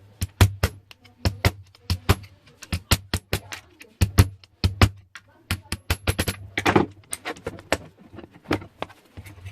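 Irregular sharp clicks and knocks of a tool against a hard plastic laptop adapter casing, about two a second, with a short scraping burst a little before the end, over a steady low electrical hum.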